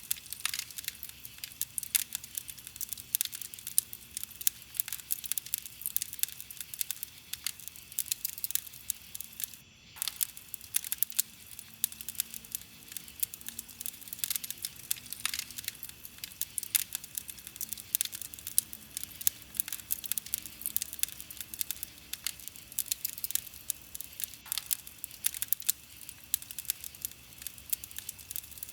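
Wood campfire crackling, with frequent irregular sharp pops and snaps over a soft hiss. The sound drops out briefly about ten seconds in.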